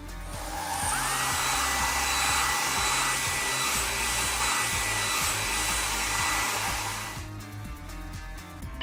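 Air dryer blowing with a loud hiss and a steady whine that rises to pitch about a second in, then stops about seven seconds in. Background music plays underneath.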